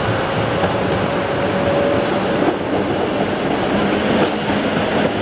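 Train running past close by, with a loud, steady rumble of engine and wheels on the track.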